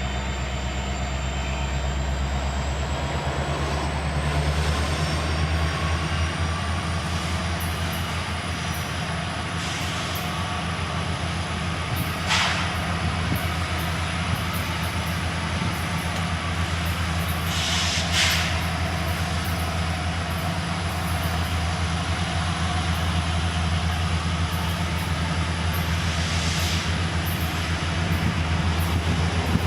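Train rolling past with a steady low rumble of cars on the rails, broken by two brief sharper noises about twelve and eighteen seconds in.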